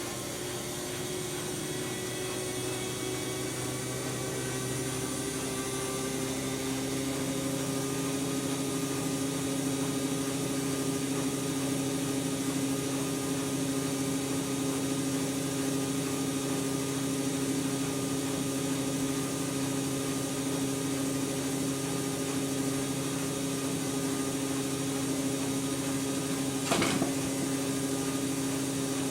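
Siemens Siwamat iQ 716 washing machine's drum motor running, its whine rising in pitch over the first few seconds and then holding steady at speed. A single short knock comes about two seconds before the end.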